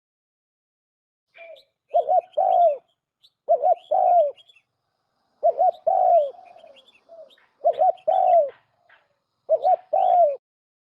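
Turtle dove cooing: five phrases, each a short coo followed by a longer one, repeated about every one and a half to two seconds. Faint high chirps sound over the coos.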